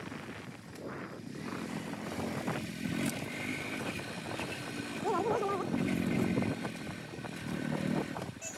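Motorcycle engine running while being ridden, its note rising and falling with the throttle.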